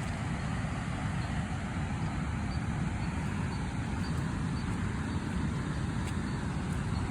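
Steady rush of fast-flowing river water below a dam, the Androscoggin running high and hard after a recent heavy rainstorm.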